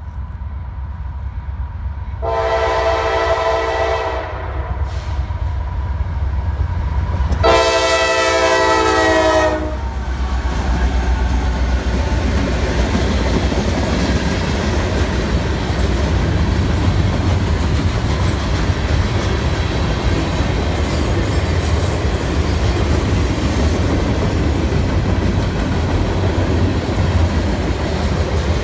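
Freight train's horn sounding two long blasts about two and seven seconds in, then the train rolling through the crossing: a steady rumble and clatter of wheels on the rails.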